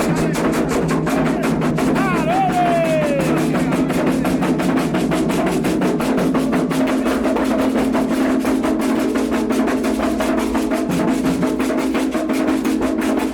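Candomblé ritual drumming on atabaque hand drums: a fast, driving rhythm of dense strokes that keeps going without a break. About two seconds in, a short pitched tone slides downward over the drumming.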